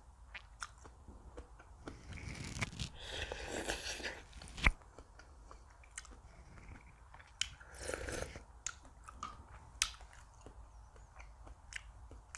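Close-miked chewing and crunching of food, with many small mouth clicks and two louder crunchy stretches. A single sharp click about four and a half seconds in is the loudest sound.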